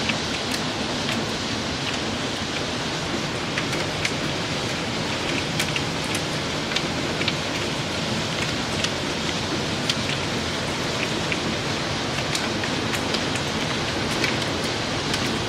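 Small round hailstones falling steadily, a dense hiss with many sharp ticks of single stones striking.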